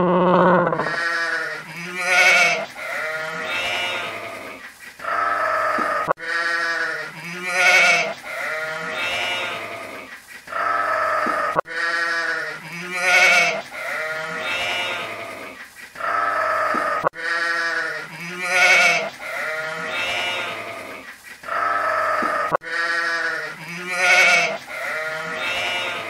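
Sheep bleating over and over, with quavering calls. The same run of bleats repeats about every five and a half seconds.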